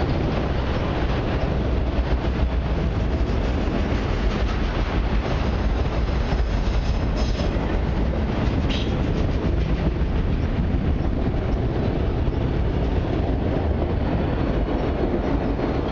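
Autorack cars of a long freight train rolling past: a steady rumble and clatter of steel wheels on the rails.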